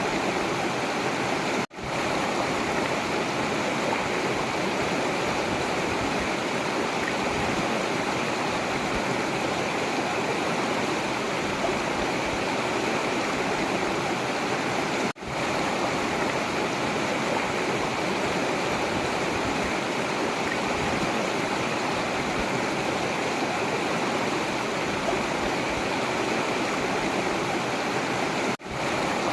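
Forest river flowing, a steady rushing of water. The sound drops out for a split second three times, about every thirteen seconds.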